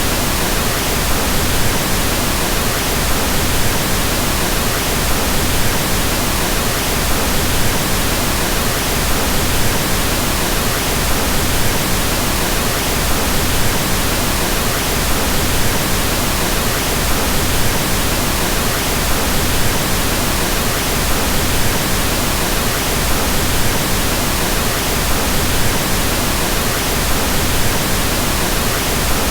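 Steady pink noise: an even hiss spread across all pitches, with more weight in the lows than white noise has, unchanging throughout.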